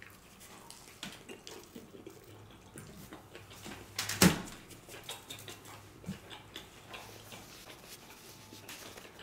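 Close-up mouth sounds of a man chewing a bite of pizza: soft, irregular wet clicks and smacks, with one sharper, louder click about four seconds in.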